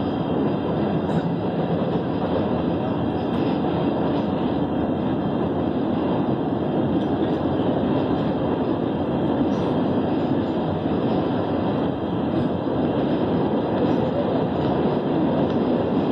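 Steady running rumble of a passenger train at speed, heard from inside the coach: wheels on the rails and the coach's own running noise, with no break or change.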